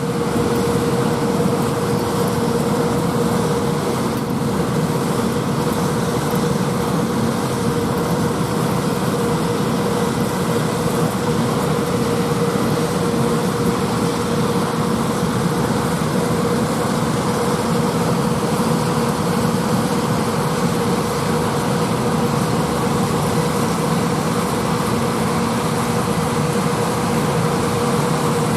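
Heavy farm machinery running steadily: tractors pulling peanut pickers through the field. The noise is constant, with a steady pitched hum over it.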